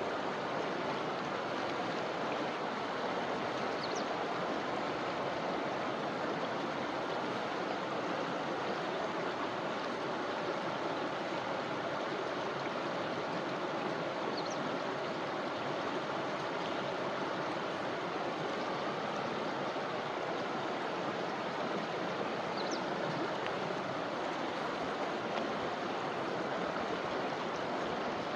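River flowing in a forest: a steady, even rush of water. A few faint, brief high chirps come through now and then.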